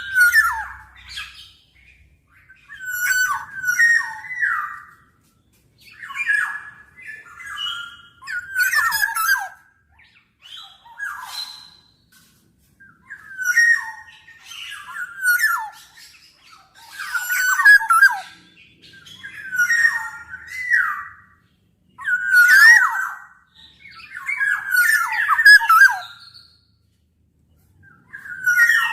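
Black-naped oriole calling over and over, one phrase about every one to two seconds: fluty gliding whistles mixed with harsher, scratchy notes.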